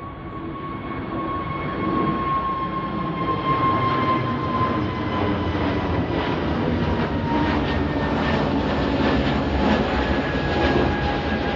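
Airliner engines on departure, growing louder over the first couple of seconds and then holding steady, with a high whine that slowly falls in pitch.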